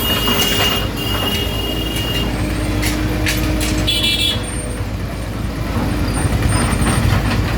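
A JCB road-repair machine's engine running steadily, with scattered knocks and clanks. A short horn toot sounds about four seconds in.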